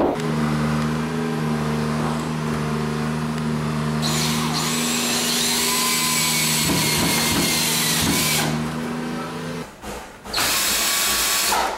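Power drill running steadily with a constant motor hum for nearly ten seconds, a higher whine rising and falling over it in the middle, then stopping. It starts again briefly for about a second near the end.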